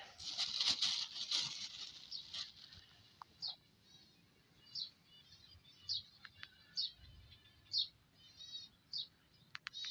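A plastic bag crinkling as it is handled for the first couple of seconds, then a small bird chirping repeatedly, short high calls about once a second.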